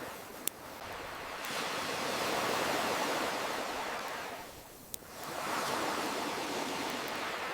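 Ocean waves washing in and receding in two slow swells, with a campfire crackling: two sharp pops, about half a second in and about five seconds in.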